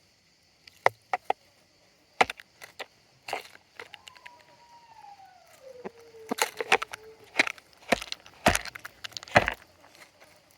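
Chickens pecking at feed: an irregular run of sharp taps and knocks, the loudest near the end. About four seconds in, one chicken gives a drawn-out call that falls in pitch.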